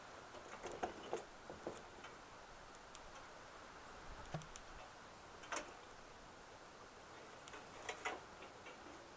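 Small pieces of wood clicking and knocking in the firebox of a burning BioLite Basecamp wood stove as sticks are fed in: scattered faint clicks, bunched in small groups, over a faint steady hiss.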